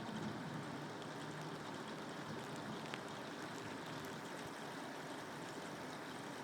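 Steady rain falling: an even hiss with faint scattered drop ticks and one slightly sharper tick about three seconds in.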